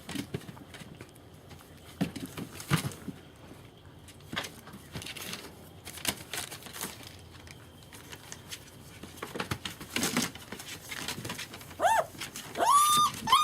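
German Shepherd puppies shuffling and knocking about, then near the end a few short, high, arching whines and yelps from a puppy being handled roughly by a littermate in play.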